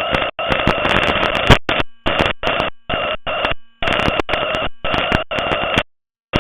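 Shortwave radio static from an online software-defined receiver: hiss held within the receiver's narrow audio passband with a faint steady tone in it, cutting in and out in short chunks with dead silence between them.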